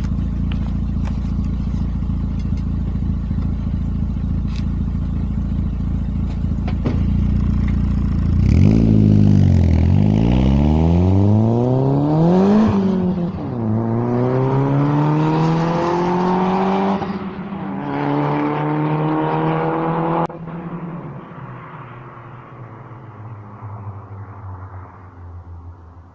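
Mitsubishi Colt CZT's turbocharged four-cylinder engine through an aftermarket Lotos exhaust: a steady low rumble, then revs climbing hard several times with a quick drop between climbs, as through gear changes. About two-thirds of the way in it cuts back suddenly to a lower, quieter note.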